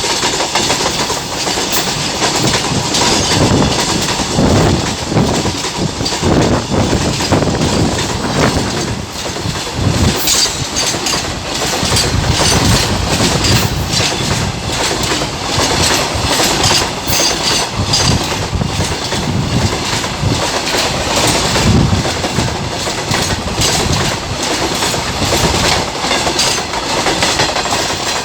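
Container freight train rolling past at close range: a steady loud rumble of steel wheels on rail with a continuous rapid clickety-clack of wheels crossing rail joints.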